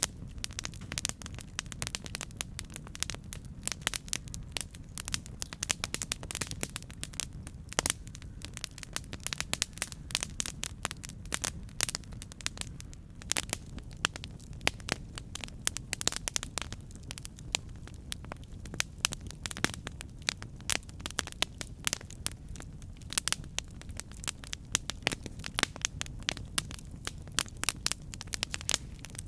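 Campfire burning: a steady low rumble of the flames with dense, irregular crackles and pops of burning wood.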